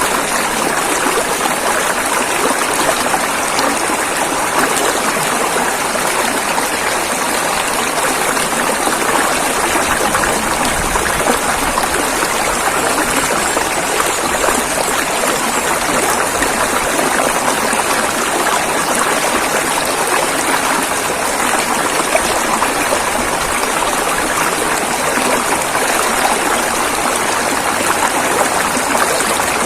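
River water flowing and rushing steadily, an even noise with no breaks.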